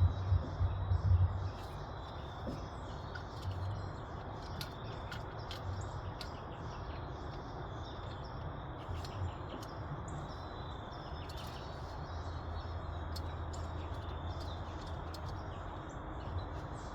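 Steady outdoor background noise with a low hum that swells at the start and again later on, and scattered faint high ticks.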